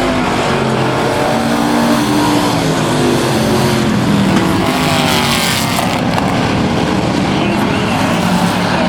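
Several Thunder Truck race trucks' engines running around the oval together, their pitches rising and falling as they accelerate and pass. A short rush of hiss comes about five seconds in.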